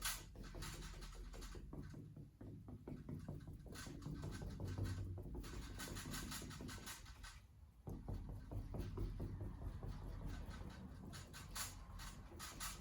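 A paintbrush loaded with acrylic paint scratching against canvas in many short, quick strokes, pausing briefly twice.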